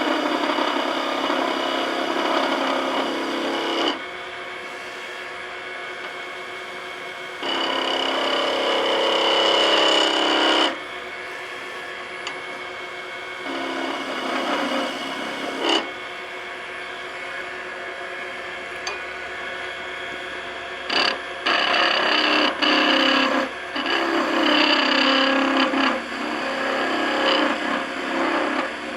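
Skew chisel cutting a spinning hickory spindle on a wood lathe: several scraping passes of a few seconds each, with the lathe's quieter steady running sound between them.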